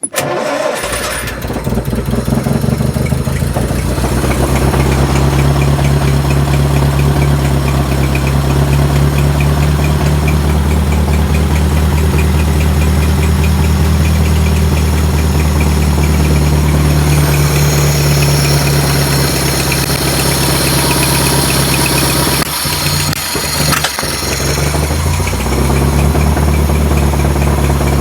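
Freshly rebuilt 1929 Riley 9 Monaco's four-cylinder engine comes in suddenly and runs steadily. A little before the end it dips and stumbles for a couple of seconds, then picks up and runs on.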